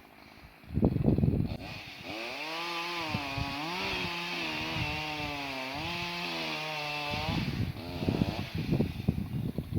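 Two-stroke chainsaw at high revs for about five seconds, its pitch dipping and recovering as the chain bites into wood, then dropping back near the end. Around it there is an uneven low rumble.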